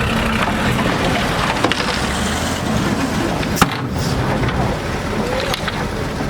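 Heavy earthmoving machine's diesel engine running steadily, with scattered metal clanks and one sharp knock about three and a half seconds in.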